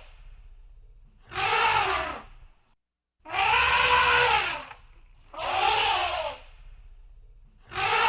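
Elephant trumpeting, repeated about every two seconds: four brassy calls, each rising and then falling in pitch, with a low rumble between them.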